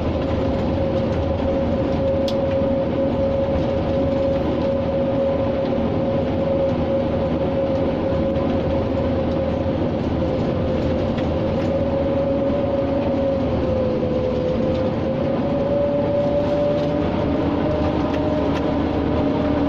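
Scania G 460 truck's 13-litre inline-six diesel pulling a loaded trailer up a steep hill, heard from inside the cab: a steady drone with a constant whine that sags slightly about two-thirds through, then recovers.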